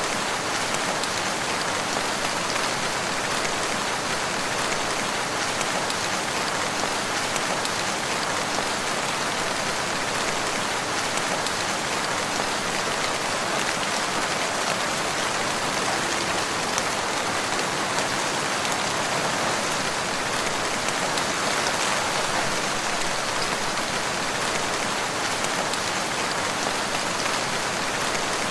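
Steady rain falling, an even hiss of many drops with no single drop, gust or thunderclap standing out.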